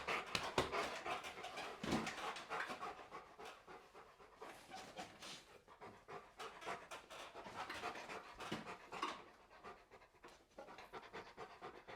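A Rottweiler panting.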